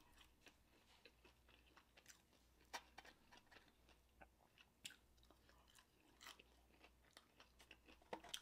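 Faint chewing of fried chicken wings: scattered soft mouth clicks, a little louder about three and five seconds in.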